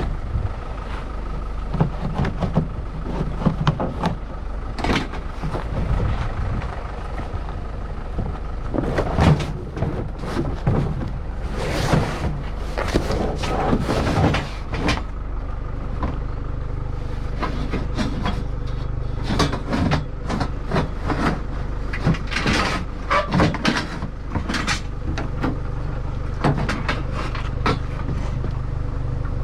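Irregular knocks, clunks and rattles of scavenged hard-rubbish items, aluminium among them, being handled and loaded into a vehicle, over a steady low hum.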